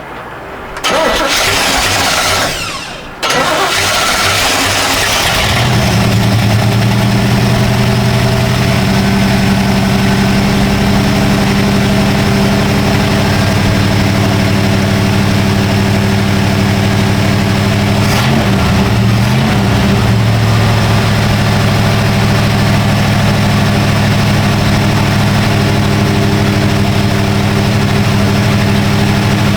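Chevy 350 small-block V8 cranking for a couple of seconds, catching, and settling into a steady idle, fed at 3 psi through a newly fitted fuel pressure regulator. Its pitch wavers briefly partway through.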